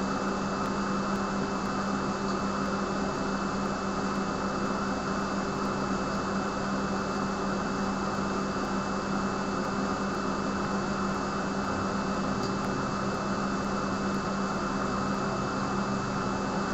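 Steady machine hum with an even hiss, the room's constant background noise, unchanging throughout.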